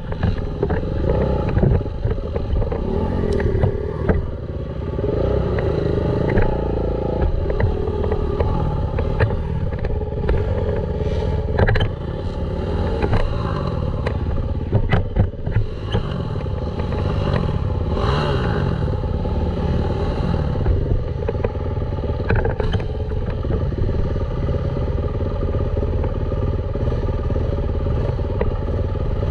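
Dirt bike engine running as the bike is ridden along a trail, its pitch rising and falling with the throttle, with frequent knocks and rattles over the rough ground.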